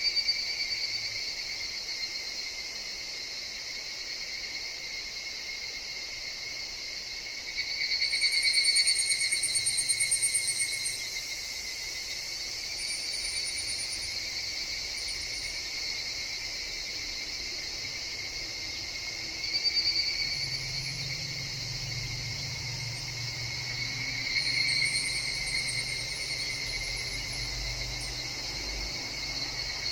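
Higurashi (evening cicadas, Tanna japonensis) calling over a steady high-pitched insect drone, with calls that swell up and fade over a few seconds, the loudest about eight seconds in and again around twenty and twenty-five seconds.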